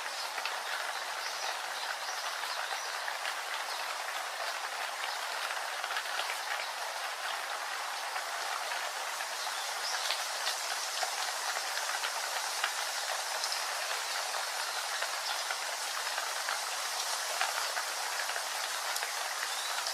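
Steady rain: a dense, even hiss of falling water dotted with many small drop ticks.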